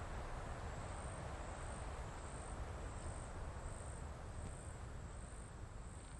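Insects trilling steadily, a thin high continuous tone over a low, even background rumble.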